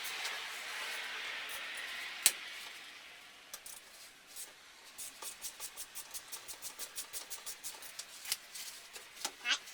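Hand ratchet clicking in quick, even strokes, about five a second, as a battery terminal nut is undone, with a couple of louder metal knocks near the end. A soft hiss and a single sharp click come before the ratcheting starts.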